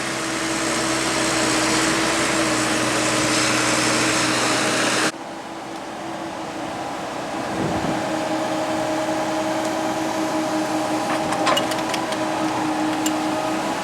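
Excavator's diesel engine running steadily with a constant hum. The sound is louder and noisier for the first five seconds, then cuts abruptly to a quieter, steady run, with a few sharp clicks near the end.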